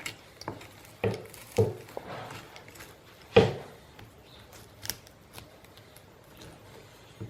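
A few sharp clicks and knocks from a skinning knife and a deer's head being handled as the skin is cut free along the skull, the loudest knock about three and a half seconds in.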